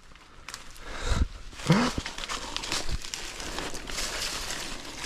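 Dry leaf litter and brush crackling and rustling underfoot as a hiker scrambles down a steep forest slope, with a couple of dull thumps about a second in and a short grunt just before two seconds.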